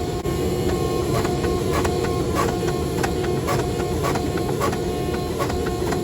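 Steady workshop machine noise with irregular sharp knocks, about two or three a second.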